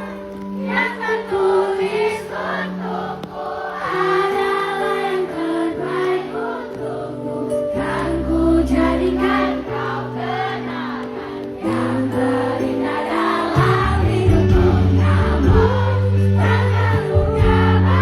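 Live pop concert music with many voices singing together over a band's sustained chords. The bass comes in heavier about three-quarters of the way through.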